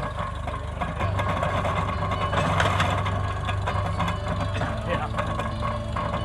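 Farmall tractor engine running steadily, belt-driving an antique hay press, with a low hum that gets stronger about a second in. Voices of people at the press mix in.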